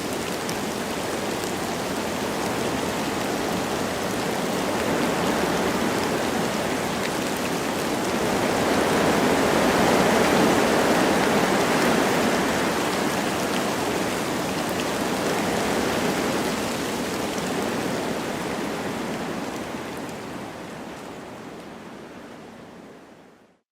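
Wind blowing through forest trees with light rain, a steady rushing that swells slowly to a peak about halfway through and then fades out near the end.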